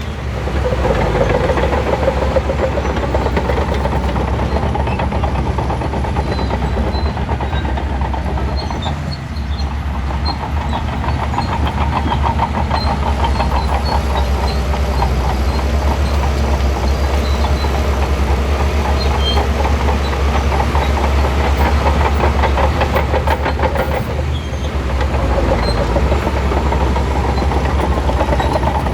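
Crawler bulldozer's diesel engine working steadily under load, with a rapid clanking of the tracks. It eases off briefly twice, about nine seconds in and again near twenty-four seconds, then picks up again.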